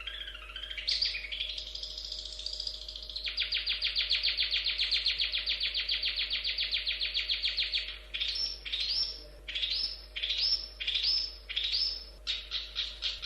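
Long-tailed shrike (cendet) singing. After a short warbling phrase comes a long, fast chatter of repeated notes, about eight or nine a second. Partway through it breaks into separate sweeping notes about two a second, and a quick run of repeated notes starts again near the end.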